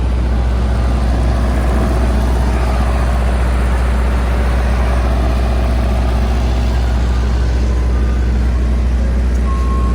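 Soft-serve ice cream truck idling with a steady deep engine hum. Near the end, a high chime note from the truck's jingle begins.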